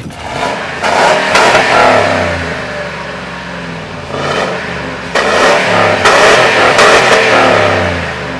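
Ford F-150's 5.4-litre Triton V8 revved hard twice, each time held near the top and then falling back toward idle. The revs stop short at a rev limiter set around 5,000 rpm.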